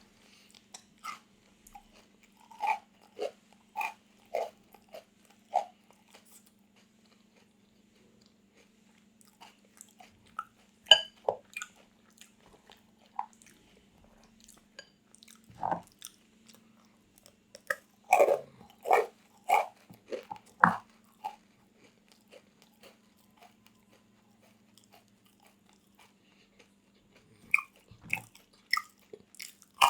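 Close-miked eating of a crunchy snack: crisp bites and crunchy chewing in irregular clusters with quiet gaps, over a faint steady low hum.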